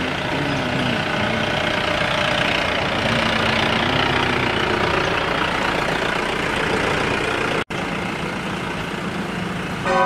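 A motor vehicle's engine idling steadily, with a brief dropout in the sound about three-quarters of the way through.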